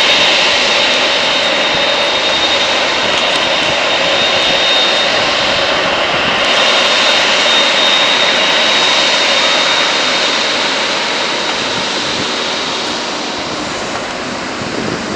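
Jet airliner engines, a loud steady roar with a high whine running through it, fading gradually over the last few seconds.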